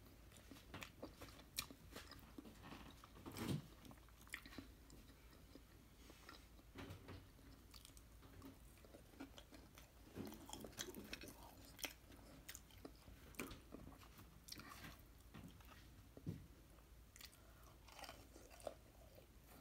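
A person chewing and biting into crisp fried popcorn chicken and fries close to the microphone: faint, irregular crunches and mouth clicks, a few louder ones about three and a half and sixteen seconds in.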